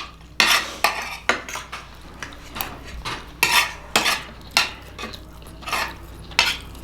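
A spoon clacking and scraping against a glass dish again and again, in short irregular strikes, as the last grains of quinoa are scooped up.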